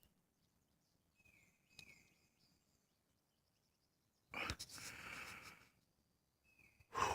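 Quiet outdoor morning with a couple of faint, short high whistled bird notes. About four seconds in a person breathes out in a breathy rush lasting about a second, and another starts near the end.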